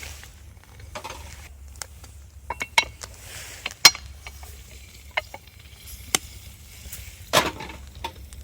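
Metal camp cookware being handled: scattered clicks and knocks, the loudest a little under four seconds in and another about seven seconds in.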